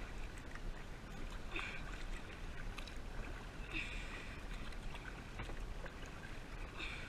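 Kayak paddle strokes in water: a short splash every two to three seconds over a steady wash of water noise.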